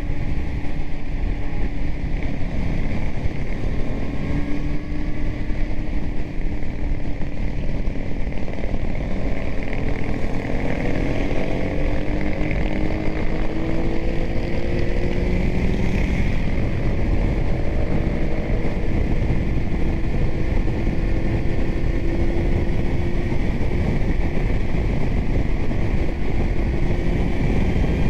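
Kawasaki Z900 inline-four with a titanium Arrow exhaust running under way, mixed with heavy wind rush on the microphone. The engine note is steady, then its revs climb in pitch a few times about halfway through.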